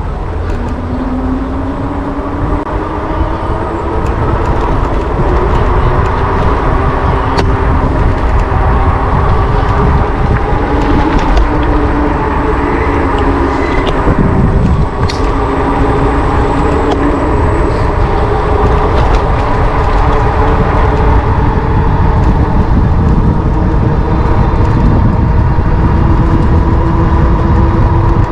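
Electric bike riding along: a strong low rumble of wind and road on the microphone, with several steady motor tones that drift slowly in pitch as the speed changes.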